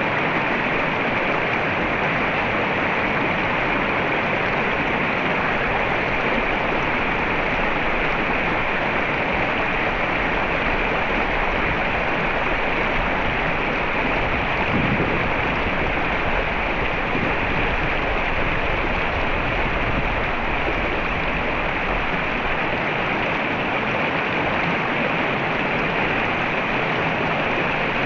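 Mountain river running over rocks, a steady rushing of flowing water, with a brief low thump about halfway through.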